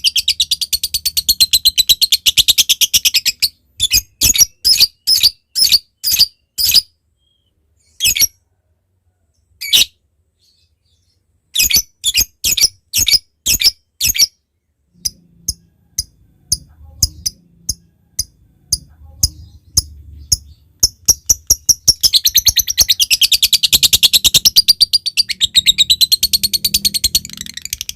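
Lovebird ngekek: a long, rapid, high-pitched chattering trill. It breaks off into separate sharp calls, two to three a second, with a short silent pause. Then comes a run of quick ticking notes (ngetik) that builds back into a long chattering trill near the end.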